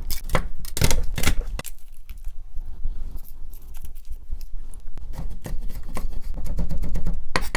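Kitchen knife chopping on a cutting board, finely mincing garlic: a few separate knocks at first, then a fast run of chops near the end.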